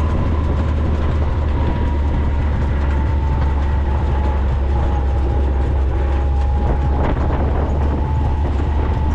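4x4 vehicle driving with a steady, heavy low rumble from engine and drivetrain, and a faint whine that slowly drops in pitch.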